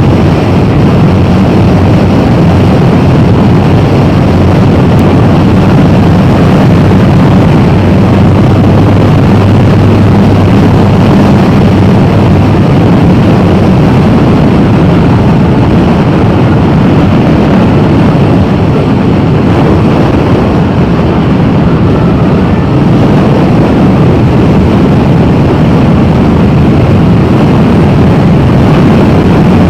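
Motorcycle running at a steady speed, loud and unbroken, with no change in engine note.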